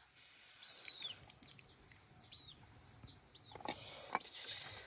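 Faint, repeated short high chirps from small birds, about a dozen over three seconds, with two sharp knocks near the end.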